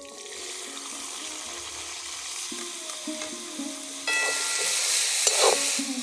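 Chopped green beans and carrots sizzling as they hit hot oil in a steel kadhai, the sizzle getting louder about four seconds in as they are stirred. Near the end there is a brief scrape of the metal slotted spoon against the pan.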